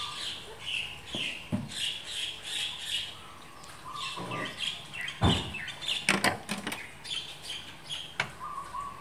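Small birds chirping repeatedly. A car door latch clicks, and the door opens with a thump about halfway through, followed by a few more clicks.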